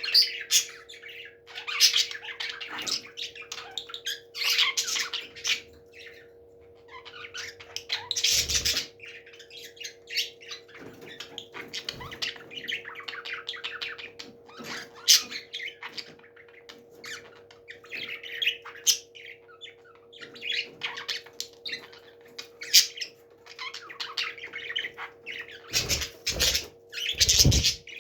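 Parrots squawking and chirping in short, harsh, repeated calls, over a steady low hum. A few dull thumps come near the end.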